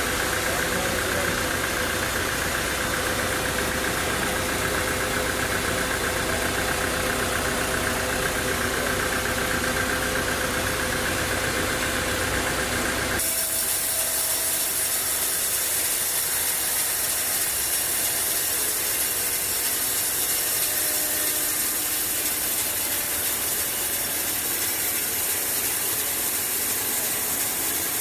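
Sawmill machinery running steadily with an engine-like drone. About halfway through, the sound changes abruptly: the low drone drops away and a higher, hissing sound takes its place.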